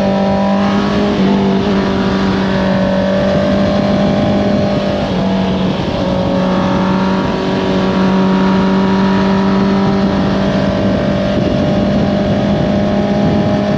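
Honda CBR650R's inline-four engine with an Akrapovič exhaust, running at steady high revs under way. Its pitch dips slightly about a second in and again around five to six seconds.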